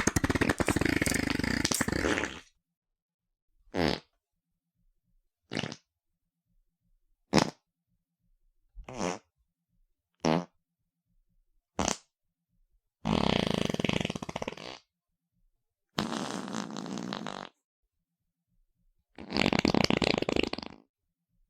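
A string of fart sounds, one after another with silence between: a long one at the start, six short ones, then three more long ones near the end.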